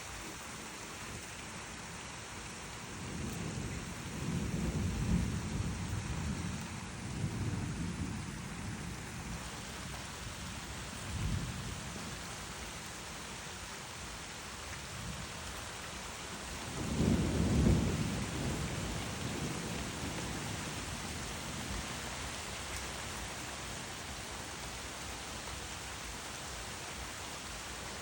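Steady rain with rolling thunder: a long rumble from about three to nine seconds in, a short one near eleven seconds, and the loudest clap-and-rumble past the halfway point, dying away slowly.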